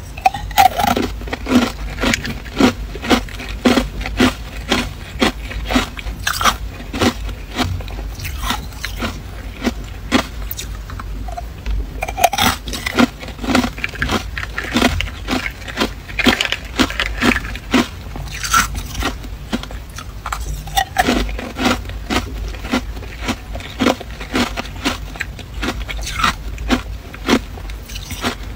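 Hard clear ice being bitten and chewed close to the microphone: rapid sharp crunches, several a second, throughout.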